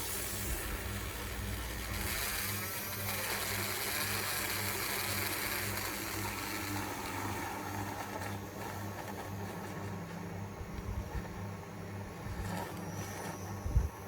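Handheld Nanofoamer milk frother running in a pitcher of heated milk with a steady motor hum. For the first several seconds it aerates at the milk surface with a loud hissing, then it quietens as it is dipped deeper to spin the milk into microfoam. A sharp knock sounds near the end.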